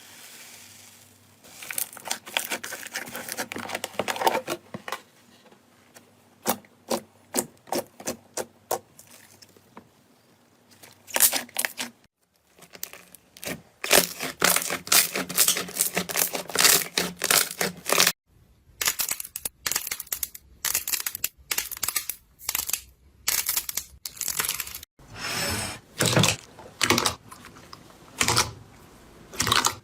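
Slime being squeezed, poked and stretched by hand, giving sticky clicks, pops and crackles, sometimes a few spaced snaps, sometimes a fast crackling run. The sound breaks off abruptly and starts again a few times.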